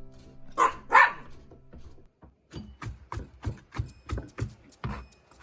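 A pet dog barks twice in quick succession, loud and sharp, over background music that stops soon after. A run of short, rhythmic knocks follows, about three a second.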